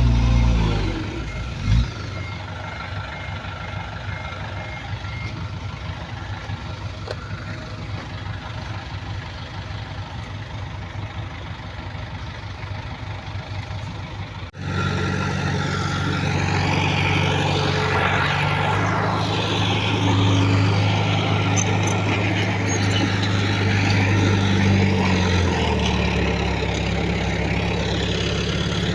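Diesel engines of heavy earthmoving machinery running, loud at first and then easing off, with a single thump about two seconds in and faint pulsed beeping like a reversing alarm for the first few seconds. About halfway through the sound cuts abruptly to a louder, closer engine, whose pitch drops a little near the end.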